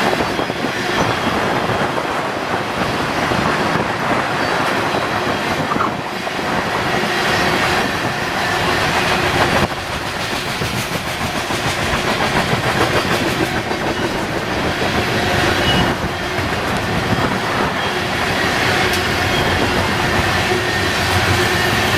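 Train cars rolling past close by: a steady rumble of wheels on rail with clicking over the rail joints.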